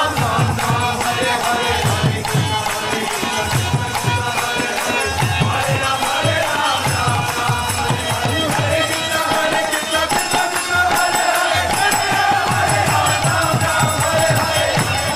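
Devotional kirtan music: singing or chanting over a steady drum beat with jingling hand cymbals.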